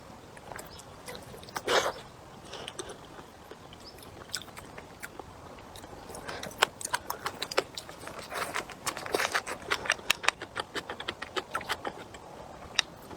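A person eating close to the microphone: chewing and crunching, with a quick run of sharp clicks and crunches from about halfway through.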